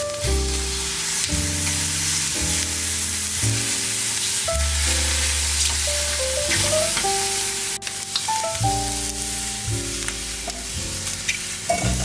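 Squid sizzling as it sears in a dry nonstick frying pan, cooked without oil over medium heat, and stirred with a silicone spoon. Background music with a run of steady notes plays over it.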